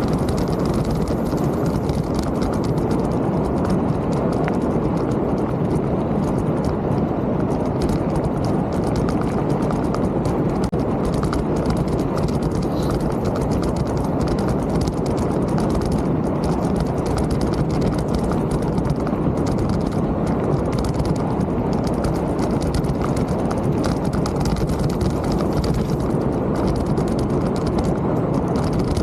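Mountain bike riding over a rough trail: a steady rumble with a dense clatter from the tyres and frame.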